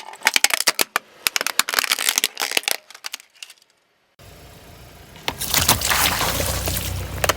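Rapid crackling and snapping of crunchy objects crushed under a car tyre. After a short cut, a car engine runs under a rushing hiss.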